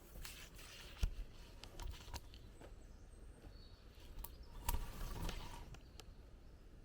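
Rustling with scattered sharp clicks, the loudest click about a second in and a louder burst of rustling a little past the middle.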